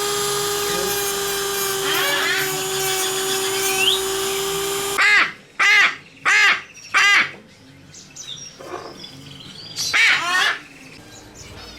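A steady, drill-like mechanical whine, with a few chirps over it, stops suddenly about five seconds in. A parrot then gives four loud squawks in quick succession, and two more a few seconds later.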